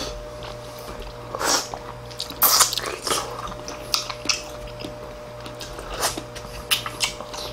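Close-up eating sounds: wet chewing, biting and smacking, in irregular short bursts, as two people eat pork back-rib kimchi stew and gnaw meat off the ribs. A faint steady hum runs underneath.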